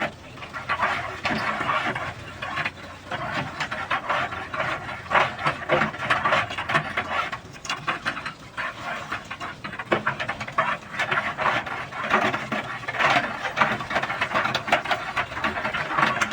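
Water and air spurting and splashing in irregular, crackling surges as a central water heater is flushed.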